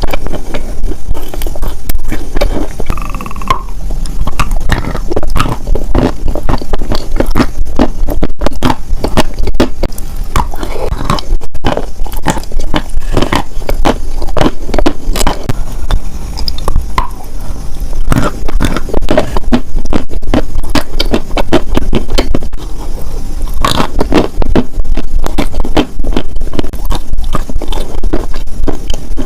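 Close-miked ASMR scratching and crackling: a dense, unbroken run of small scrapes and clicks.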